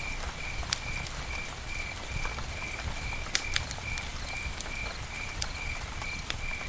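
Campfire crackling, with scattered sharp pops over a low steady rumble. A high chirp repeats evenly, about twice a second, throughout.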